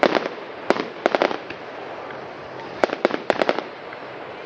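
Fireworks exploding in quick clusters of sharp cracks and bangs: a group at the start, more around one second in, and another cluster about three seconds in, over a steady background hiss.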